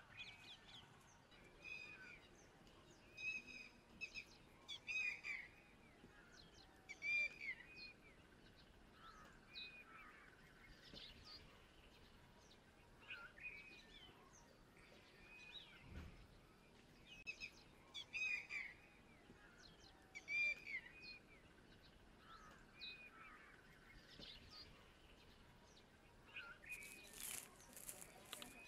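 Faint birds calling: short chirping notes repeating every second or two over a quiet background hiss, with a few sharp crackles near the end.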